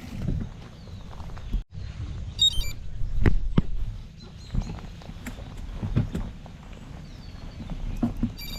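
Specialized Epic Pro mountain bike riding along a trail: a steady low rumble of tyres and wind, with scattered knocks and rattles from bumps.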